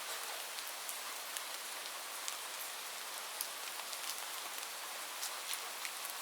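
Steady rain falling on a roof: an even hiss with many individual drops ticking sharply through it, and no thunder.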